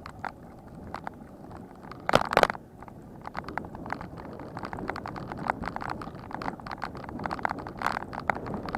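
Bicycle rattling and clicking over rough ground: irregular sharp knocks and ticks over low road noise, with a louder clatter about two seconds in.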